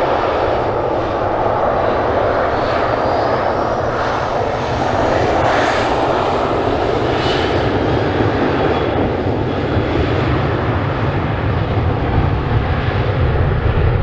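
Boeing 737-700's CFM56-7B turbofan engines at takeoff thrust: a loud, steady rush of jet noise with a faint high whine that slides in pitch.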